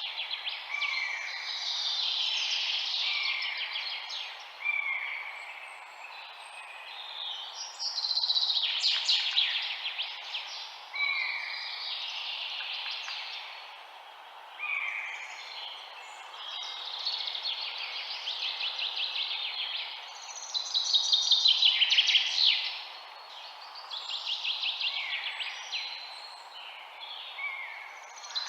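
Several songbirds chirping and singing, with fast trilled phrases and a short rising-and-falling note that recurs every few seconds. A faint steady hiss lies beneath them.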